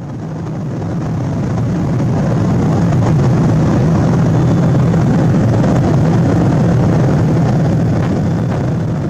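Steady roar of a Boeing 777-200 heard from inside the cabin, engine and airflow noise with a deep low hum. It swells over the first couple of seconds, then holds steady.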